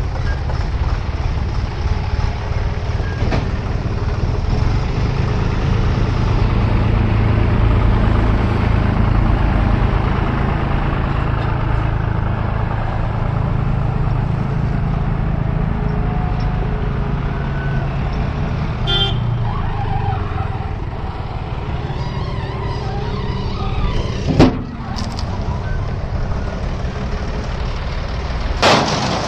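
Diesel engines of a backhoe loader and tractor running steadily while loading, with two sharp knocks near the end.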